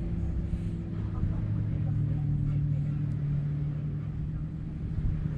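An engine running steadily nearby: a constant low hum that holds one pitch.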